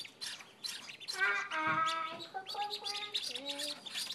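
Newly hatched ducklings peeping: many short, high chirps, several a second, overlapping. A child's voice says a drawn-out "Hi" partway through.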